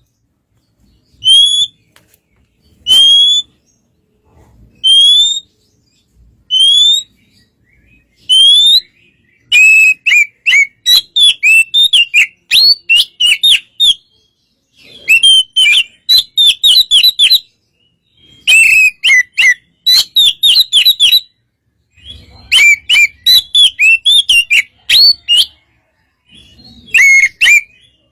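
Oriental magpie-robin (kacer) in relaxed song. It starts with single rising whistled notes about every two seconds, then from about ten seconds in breaks into fast, varied phrases of quick whistled notes, a few seconds each, with short pauses between.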